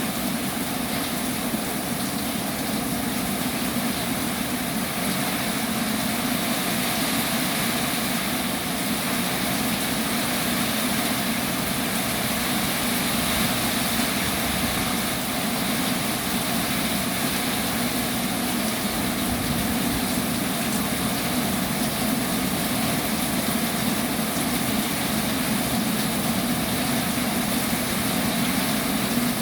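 Heavy rain falling steadily, an even unbroken noise of rain.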